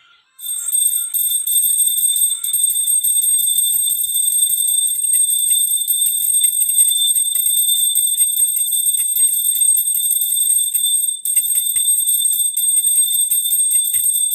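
Puja hand bell rung continuously, a steady high-pitched ringing over a light rattle of strokes, with one brief break about three quarters of the way through.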